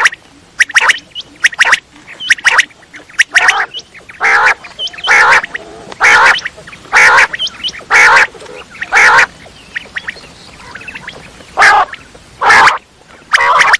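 Quail calling: short, harsh calls repeated about once a second, with a pause of about two seconds before they start again near the end.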